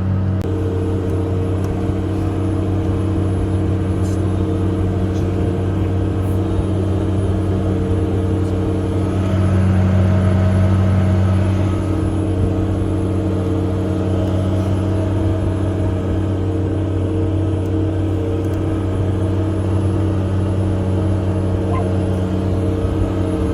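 Case 385 tractor's turbo-diesel engine running steadily under load, heard from inside the cab, with a deep even drone that swells a little louder about halfway through. A faint thin high whine runs under it.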